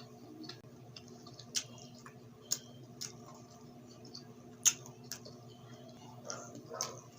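Close-miked mouth sounds of someone eating grilled isaw: wet smacks and sharp clicks at uneven intervals, over a low steady hum.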